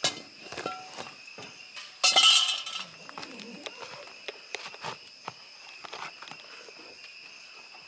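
Insects trilling steadily at two high pitches, with scattered clicks and metallic clinks of handling, and a brief louder rasping scrape about two seconds in.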